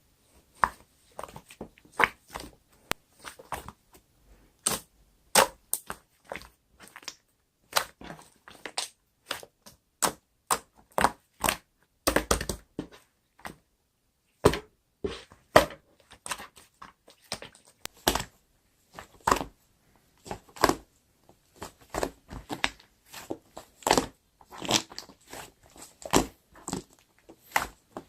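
Two-layer slime being squeezed, pressed and stretched by hand, giving a run of crisp pops and crackles, a few a second, with short quiet gaps between handfuls.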